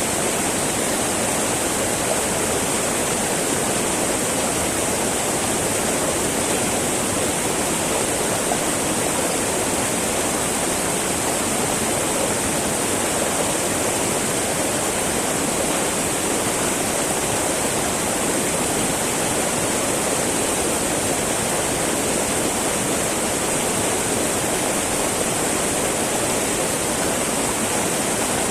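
Small mountain river babbling and rushing over stones, a steady, even flow.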